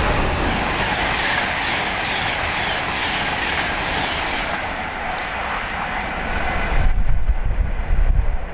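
A train passing on the line, a loud rushing of wheels on rail with some clickety-clack that cuts off about seven seconds in. Wind buffets the microphone, plainer after the train has gone.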